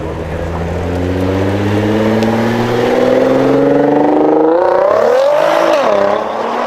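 Nissan GT-R R35's twin-turbo V6 accelerating hard, its pitch climbing steadily for about five seconds, then a quick dip and rise as it shifts before the sound falls away near the end.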